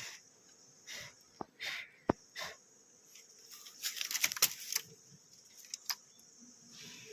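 Steady high-pitched chirring of night insects such as crickets, with scattered sharp clicks and rustles and a short burst of crackling about four seconds in.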